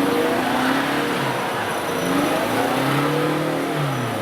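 Engine of a prepared off-road competition 4x4 revving up and down several times, with a longer climb in pitch that drops away near the end.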